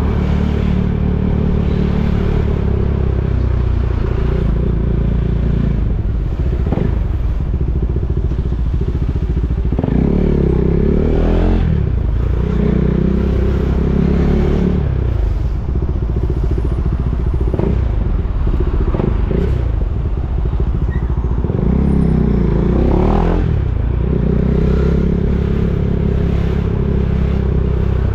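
KTM Duke 390's single-cylinder engine running at low revs, with a few short rises and falls in revs.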